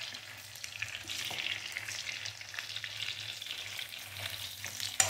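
Cornflour-coated soya chunks shallow-frying in hot oil in a non-stick pan, a steady crackling sizzle, while a spatula stirs and turns them. A sharp click comes near the end.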